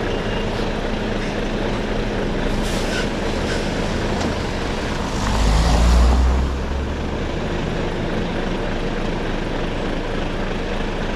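Lorry's diesel engine running steadily, with one reversing beep right at the start. About halfway through, the engine swells louder for about a second, with a hiss on top.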